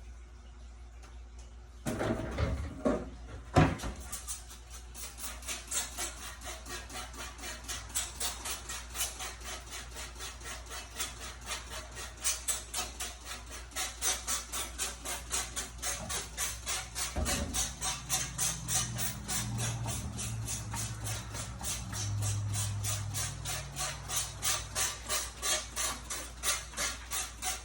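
A few handling knocks, then a hand trigger spray bottle squirted rapidly over and over, several short hissing squirts a second, spraying cleaning solution into a dehumidifier.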